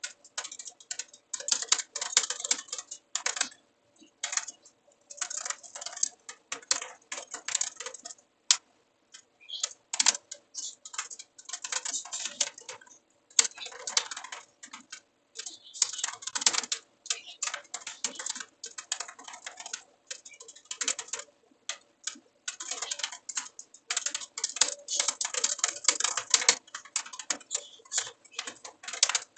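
Computer keyboard typing in quick runs of keystrokes lasting a few seconds each, broken by short pauses, as code is written.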